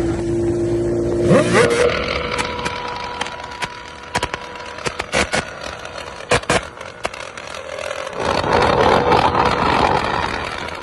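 Motorcycle engine held at steady revs, then dropping off about a second and a half in. A string of sharp exhaust pops and crackles follows over the next few seconds: backfiring on the overrun, the 'misfire' of the title. A louder rushing noise swells near the end.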